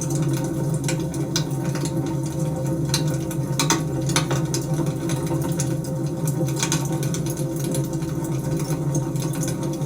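Wood fire burning: a steady low rush with scattered sharp pops and crackles, a few clustered around the first few seconds and one more later on.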